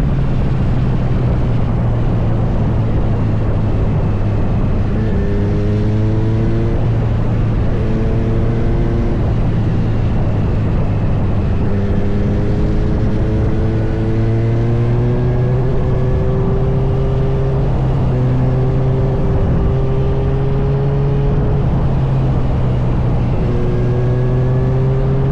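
Kawasaki Z900 motorcycle's inline-four engine running under way over a steady rush of wind noise. Its pitch climbs several times as the bike speeds up.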